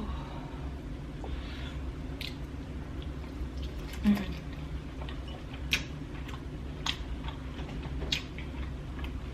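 Close-miked chewing and wet mouth sounds of someone eating sauce-coated prawns, with a few short sharp clicks and one louder blip about four seconds in, over a steady low hum.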